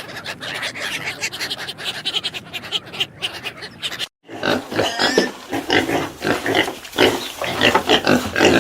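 Pigs grunting and squealing in quick irregular bursts, with a brief gap about four seconds in.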